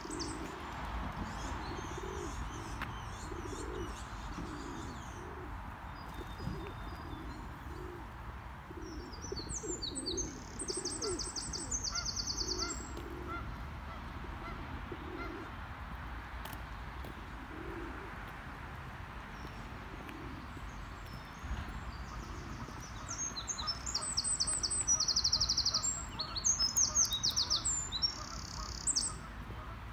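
Songbirds singing in bursts of fast, high trills, about ten seconds in and again through the last several seconds, over a series of low, repeated coos from pigeons in the first two thirds.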